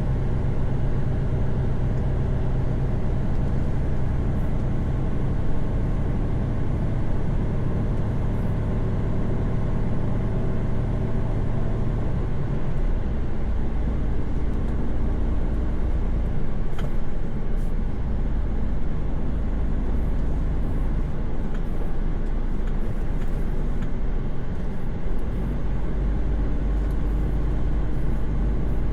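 Mercedes-Benz Actros truck's diesel engine and road noise heard inside the cab while cruising on a motorway, a steady low hum. About halfway through, the engine note drops to a lower pitch.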